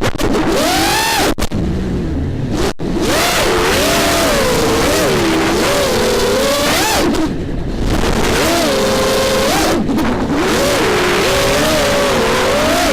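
Racing quadcopter's brushless motors and props (Racerstar BR2306 2700KV with DalProp 5045 props) whining, the pitch rising and falling constantly with the throttle. The whine briefly cuts out twice in the first few seconds.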